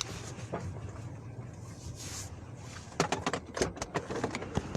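Steady low rumble of a car running on the road, heard from inside the cabin, with a quick series of sharp clicks and knocks in the last couple of seconds.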